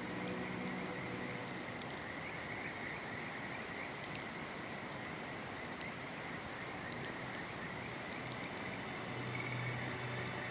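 Campfire crackling with scattered sharp pops, one louder about four seconds in, over the steady rush of a river and a continuous high chorus of calling creatures. Soft music fades out about a second and a half in and returns near the end.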